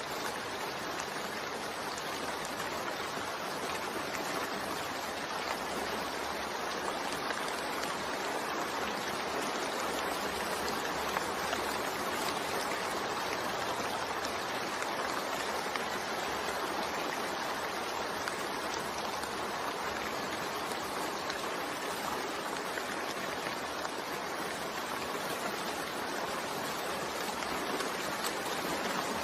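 Steady rain falling, an even hiss of drops that holds without a break.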